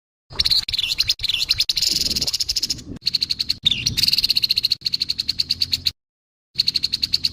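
Grey-headed babbler giving its harsh calls: rapid rattling pulses, about ten a second, in three runs that start and stop abruptly.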